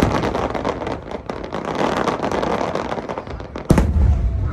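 Fireworks: a dense run of crackling and popping, then a single loud bang about three and a half seconds in.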